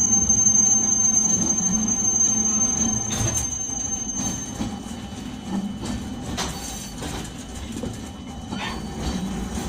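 Nagasaki Electric Tramway 370-series streetcar running, with a steady high-pitched wheel squeal on a curve that stops about halfway through. The running rumble then grows quieter as the car slows for a stop, with a few light clanks.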